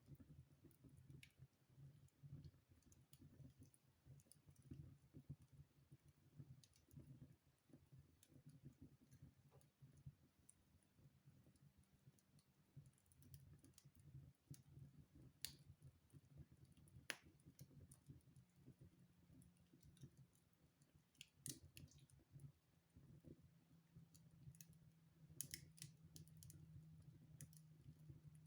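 Wood fire burning in a fireplace, faint and quiet, with scattered sharp crackles and pops from the burning logs over a low steady rumble.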